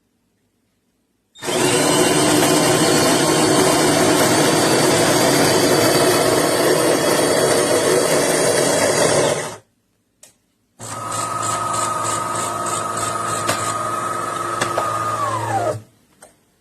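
Bean-to-cup espresso machine's built-in grinder running for about eight seconds, then a click. The machine then runs again for about five seconds with a steady hum, ending in a whine that drops in pitch as it stops.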